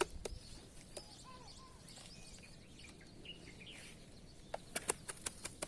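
Faint bird chirps, short and curving in pitch, over outdoor background noise; about three-quarters of the way through a quick run of sharp clicks or taps starts.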